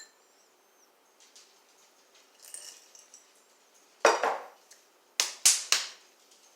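Kitchenware being handled on a counter: a sharp knock with a short ring about four seconds in, then three quick hard clicks a second later.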